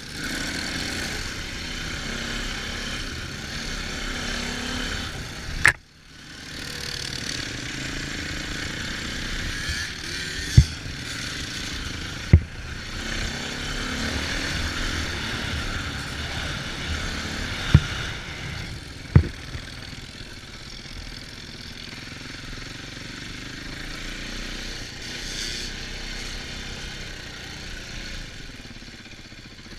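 Off-road vehicle engine running steadily under a continuous rush of riding noise. The sound cuts out briefly about six seconds in, and there are four sharp knocks in the middle stretch.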